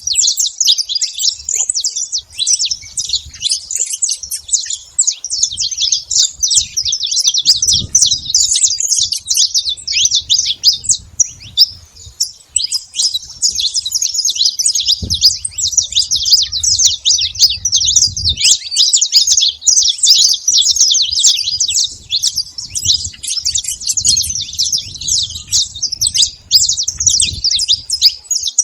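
Saffron finch singing: rapid, high-pitched chirps and trills in long, almost unbroken phrases, with a brief break about twelve seconds in.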